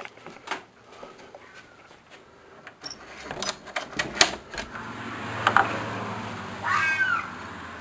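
Clicks and knocks of a door being unlatched and opened, then, about a second before the end, one short screeching animal call outside whose pitch arches up and falls. It is the distressed-sounding screaming that went on for hours through the night, which the recorder thinks may be a fox or a coyote.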